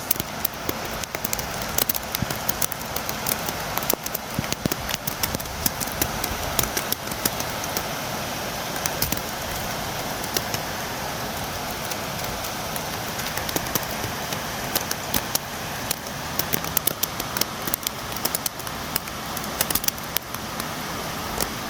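Steady rain falling, with many sharp drops tapping against a window over a constant hiss.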